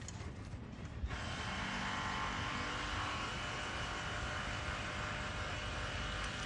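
Steady engine noise, a low rumble joined about a second in by a broad hiss that then holds steady.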